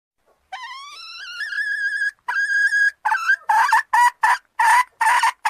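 Recorded junglefowl calls of the kind used as a hunting lure. About half a second in comes a long call that rises and levels off into a held note, then a short second held note. From about three seconds in there is a run of about eight short clucking calls, roughly two a second.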